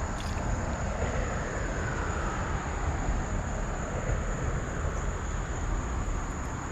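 Steady outdoor ambient noise, a low rumble and hiss, with a constant high-pitched insect drone over it.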